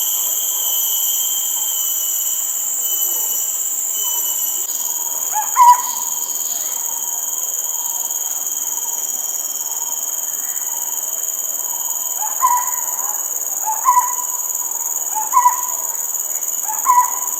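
Steady, shrill insect chorus of forest crickets or cicadas. Over it, a short rising call sounds once about five seconds in, then four more times in the last five seconds, roughly every one and a half seconds; these calls are the loudest sounds.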